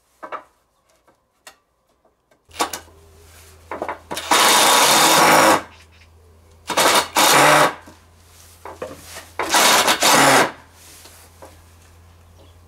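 An electric power tool's motor starts and hums steadily, with three loud bursts of about a second each as the tool works.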